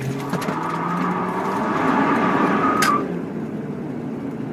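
Dodge Durango doing a burnout, heard from inside the cabin: the engine revs up and the spinning tyres squeal for about three seconds, then it cuts off suddenly and eases back.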